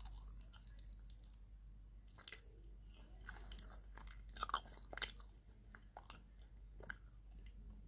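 A person chewing food with the mouth closed: faint, irregular clicks and short mouth sounds.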